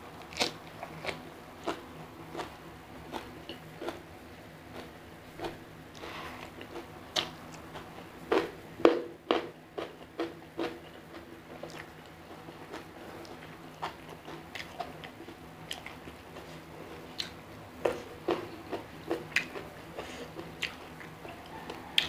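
Close-miked chewing of a mouthful of raw watercress, with irregular crisp crunches throughout, loudest in a cluster about eight to ten seconds in.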